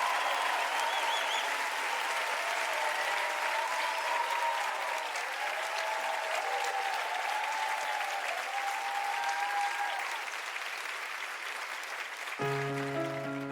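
Studio audience applauding and cheering. Piano chords begin about a second before the end.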